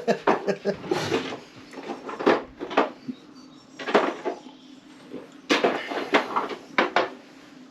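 Irregular clicks and clatters of tools and parts being handled on a workbench, in several short clusters.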